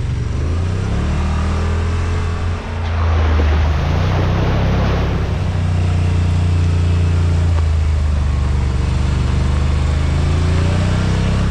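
Yamaha RMAX side-by-side's engine running steadily under way, a low drone that dips briefly and then grows a little louder about three seconds in. A brief rush of noise rides over it for a couple of seconds.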